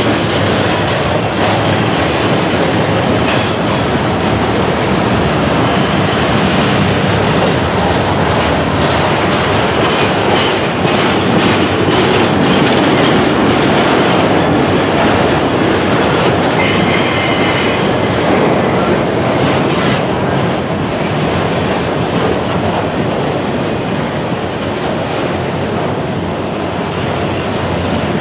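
Freight cars rolling past close by: a steady loud rumble and clatter of steel wheels on rail, with scattered sharp clicks and a brief high metallic squeal about seventeen seconds in, easing slightly near the end.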